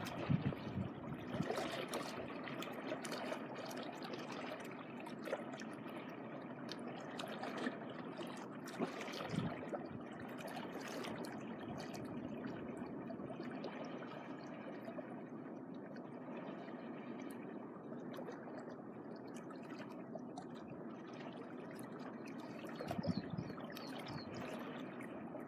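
Small waves washing and trickling on a beach shore in a steady, even wash.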